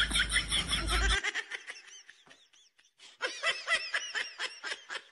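Snickering laughter sound effect: a quick run of short, high 'heh' bursts, about four a second. It fades out after the first second and starts again about three seconds in. A low rumble underneath cuts off about a second in.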